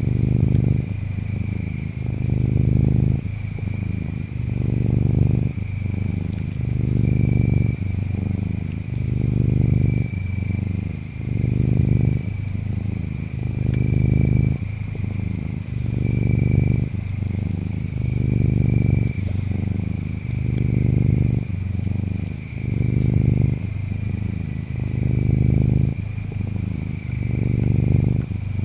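A cat purring close up, the low purr swelling and easing in an even rhythm about every two seconds as it breathes in and out. Faint insect chirps sound behind it.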